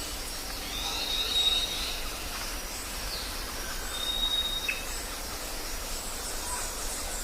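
Jungle ambience: birds calling over a steady hiss of insects and forest background, with two long, high, even whistles, one about a second in and another about four seconds in, among scattered short chirps.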